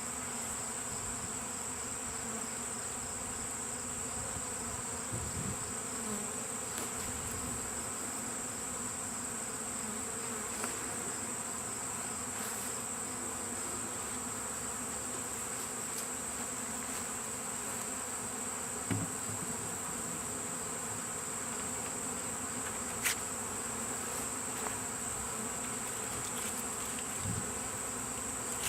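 Honeybee swarm buzzing steadily around a hive box, with a couple of faint knocks.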